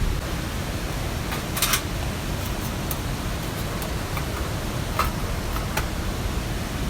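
Steady rushing noise of rain and a nearby mountain stream, with a few sharp ticks: a short cluster about a second and a half in, then single ones near five and six seconds.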